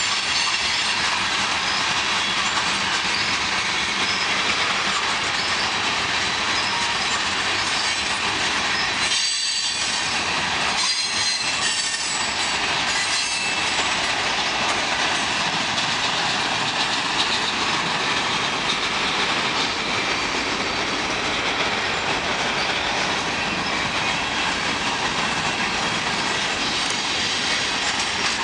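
Freight train cars rolling steadily past at close range, wheels squealing high and clacking over the rail joints, with brief dips in the noise about nine and eleven seconds in.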